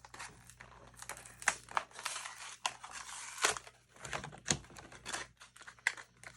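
A Hot Wheels die-cast car's card-and-plastic blister pack being torn open by hand: plastic crinkling and cardboard tearing in irregular crackles and clicks.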